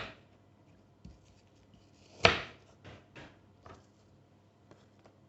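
Food and a plastic lunchbox being handled while packing: one sharp knock with a short rustling tail about two seconds in, and a few lighter taps and clicks around it.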